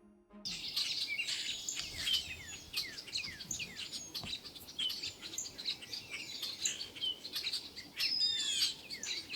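A flock of red-winged blackbirds calling together: many overlapping chirps and short falling whistles, starting about half a second in and running on densely.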